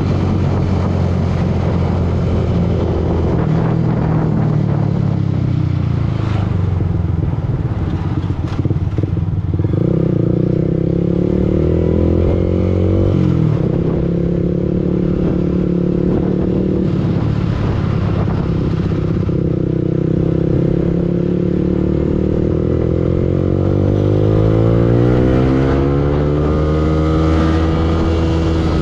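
Yamaha R15 V2's single-cylinder four-stroke engine running on the move, its revs rising and falling with throttle and gear changes. The pitch jumps up about a third of the way in, drops back soon after, and climbs steadily near the end.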